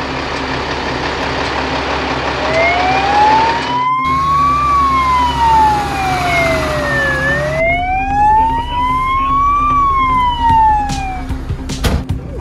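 Fire engine siren wailing, its pitch sliding slowly up and then down, about five seconds per rise and fall, over steady engine and road noise; the wail begins a couple of seconds in and fades near the end.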